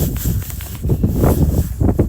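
Wind buffeting the microphone with a heavy low rumble, and footsteps crunching through snow about twice a second.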